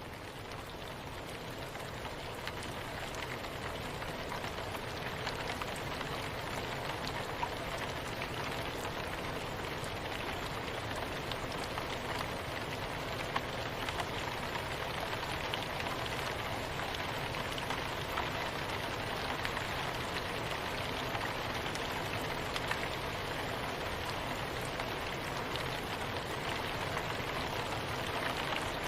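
Steady soft rain falling, an even hiss with fine scattered drop ticks, gently swelling in level over the first few seconds and then holding steady.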